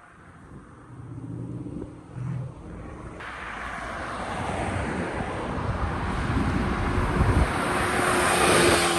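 A car approaching, its engine and road noise growing steadily louder, with the noise swelling sharply from about three seconds in.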